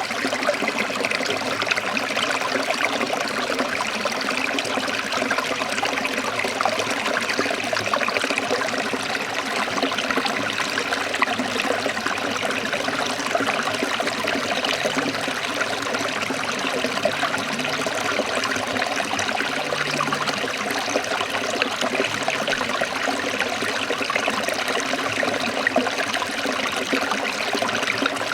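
Forest stream trickling and splashing over rocks, a steady even rush of running water.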